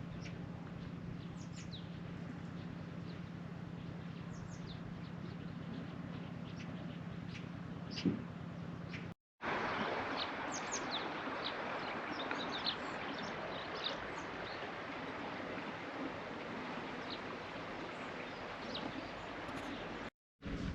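Small birds chirping with many short, scattered calls over a steady outdoor background hiss. A low steady hum sits under the first half. The sound drops out briefly about nine seconds in, then the chirping goes on over a louder hiss.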